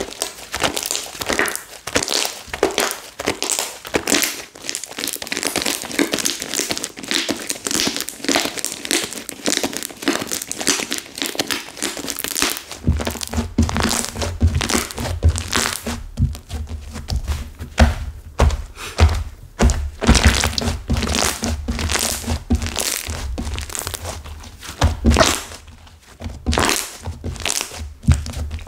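Hands squeezing and pressing a flora slime (slime mixed with clay) whose clay has set stiff, giving a dense run of crunchy crackles and clicks. About halfway through, low thuds join as it is pressed down against the surface.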